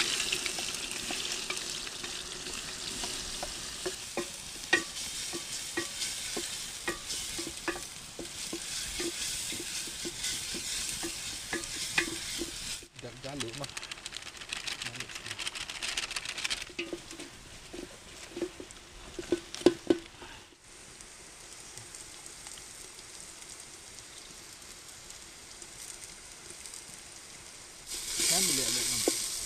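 Chopped onions frying in hot oil in an aluminium pot, sizzling steadily, while a spoon stirs and scrapes against the pot with many small clinks. The sizzle is loudest at the start and swells loud again near the end.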